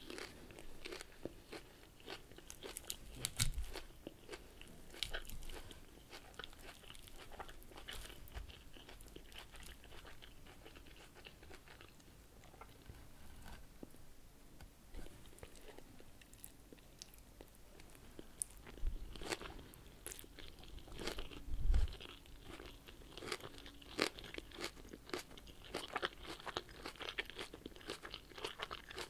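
Close-miked crisp crunching and chewing of a raw leafy lettuce salad, in bursts of crackly bites. The crunching is busiest near the start and again in the last third, with a quieter stretch of softer chewing in between.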